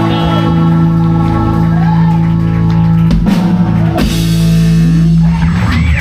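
Live rock band playing: electric guitar and drum kit over long held notes, with drum hits about three and four seconds in, as the song reaches its close.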